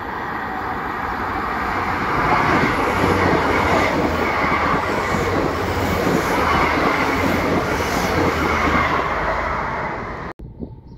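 Passenger train passing on the tracks just below: a rumbling rush of wheels on rail that swells about two seconds in as the carriages come alongside. It eases off near the end and cuts off suddenly.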